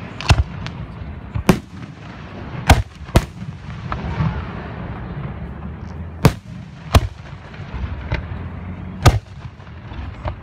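Aerial firework shells bursting overhead: about eight sharp booms at uneven gaps of roughly half a second to three seconds, over a low background rumble.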